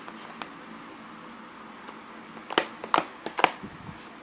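Jiggly water slime being squeezed and pulled by hand, giving a quick cluster of sharp wet clicks and pops about two and a half seconds in after a quiet stretch.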